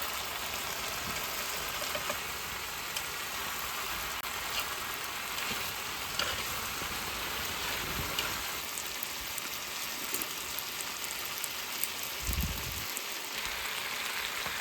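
Pork belly and kimchi sizzling in a hot pan: a steady frying hiss with scattered small crackles.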